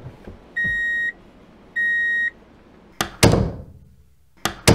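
Two steady electronic beeps about a second apart, then two pairs of sharp plastic clacks as the plastic swing doors of a toy barn are pushed shut.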